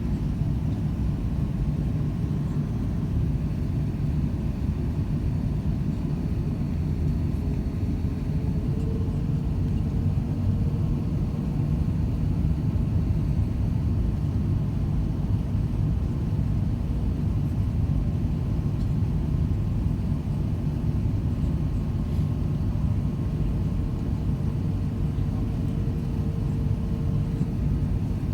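Cabin noise inside an Airbus A380: a steady low rumble of engines and airflow, with a faint hum that comes and goes twice.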